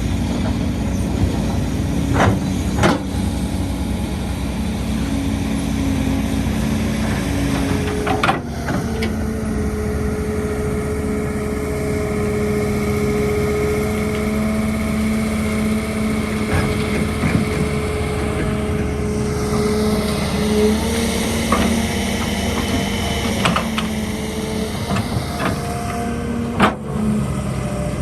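Heavy excavator diesel engine running steadily under load, with a high hydraulic whine and a few sharp clanks.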